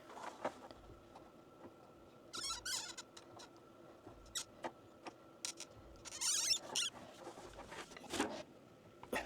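Two short bursts of squeaky rubbing, about two seconds in and again near six seconds, with scattered light clicks, as plastic plumbing parts are handled and pushed together.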